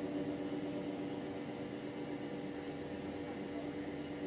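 Steady running noise heard from inside a moving passenger train carriage, with a constant low hum under it.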